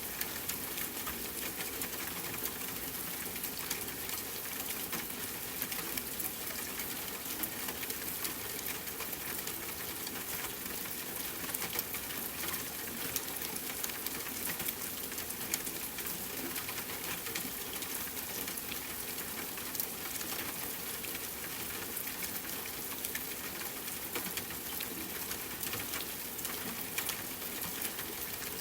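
Steady rain pattering on a tent, a dense hiss of drops with scattered sharper ticks and pops from a crackling campfire mixed in.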